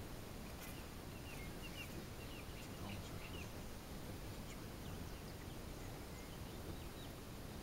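Short, wavering chirps of a small bird, several in the first three seconds and a few fainter ones later, over a steady outdoor background hiss.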